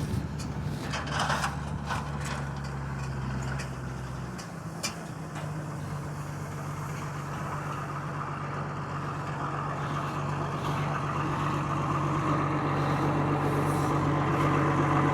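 Bale stack wagon's engine running steadily, with a few sharp knocks in the first two seconds. The engine note changes about four seconds in, and the sound grows gradually louder.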